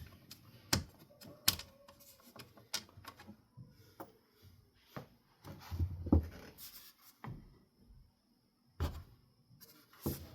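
Scattered clicks and light knocks from ceiling fan parts being handled: blade irons, screws and metal washers. The knocks are spaced irregularly, with the loudest about six and nine seconds in.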